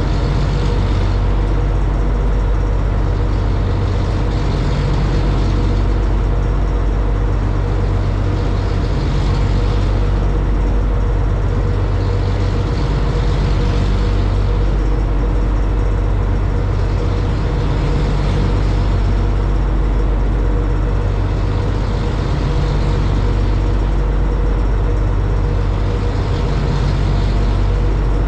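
High-speed passenger boat's engines running steadily at cruising speed, with a constant low drone. Over it, a rushing hiss swells and fades about every four seconds.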